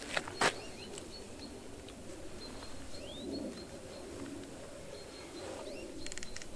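Small birds chirping repeatedly, with one rising call about three seconds in. Two sharp clicks near the start and a quick rattle of clicks near the end come from the feeder rod and reel being handled.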